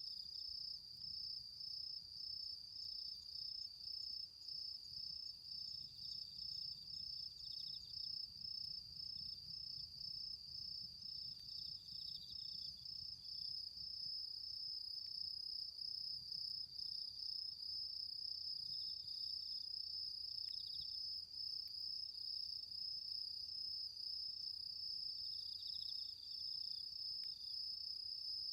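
Autumn insects chirping: one keeps up a continuous, fast-pulsing high trill, while another adds short bursts of slightly lower chirps every few seconds.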